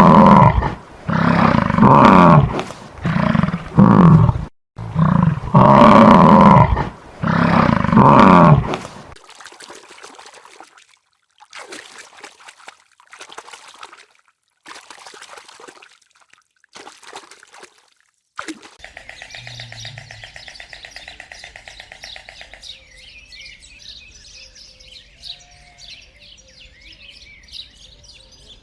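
A large animal giving loud, repeated roaring calls, each lasting up to about a second, for roughly the first nine seconds. After that come quieter clips, and a faint, fast-pulsing chirring of insects or birds that starts about two-thirds of the way in.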